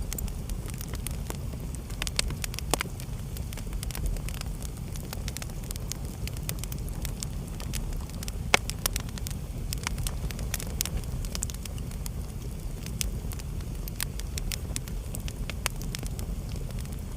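Wood fire burning in a fireplace: a steady low rumble of the flames with irregular sharp crackles and pops, the loudest about two, three and eight and a half seconds in.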